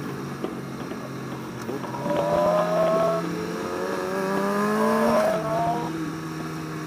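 Motorcycle engine accelerating: its pitch climbs steadily for about three seconds, then falls back about five seconds in.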